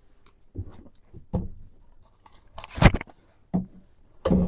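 Ferrex cordless power tools being set into a wooden wall-mounted tool holder: a series of five separate knocks and clunks of the tools against the timber, the loudest and sharpest a little before the middle.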